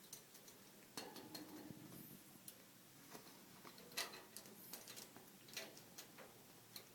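Faint, scattered light taps and clicks, as of a cat's paws and claws scrabbling and batting while playing with a cat teaser toy, with a brief high squeak about two seconds in.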